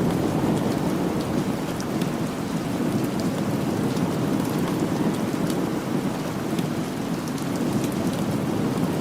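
Steady rain falling, with a low rumble of thunder that swells and eases under it, and scattered sharp ticks.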